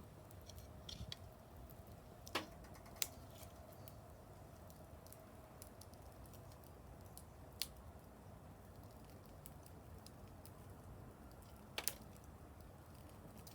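Wood fire crackling: sparse, sharp snaps and pops, four of them louder than the rest, over a quiet background.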